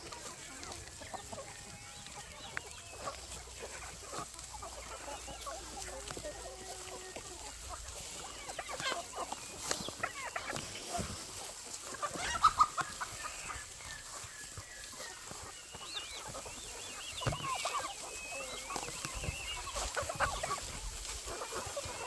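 A flock of chickens clucking, with many short calls overlapping and a louder burst of calls about halfway through.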